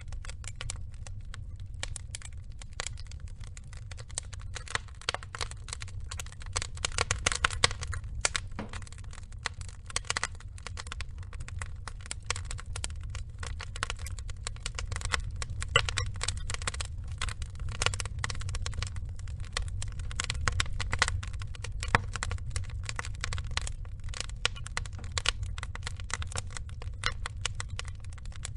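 Log fire burning: dense, irregular crackling over a low steady rumble, with a few louder snaps.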